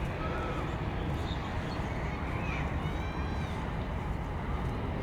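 Wind rumbling steadily on the binaural microphones over outdoor city ambience, with a few brief high calls or voices in the distance.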